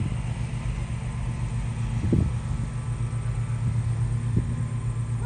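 Freight train of empty container flat wagons rolling away along the track: a steady low rumble with a few dull knocks, one about two seconds in and another near the end.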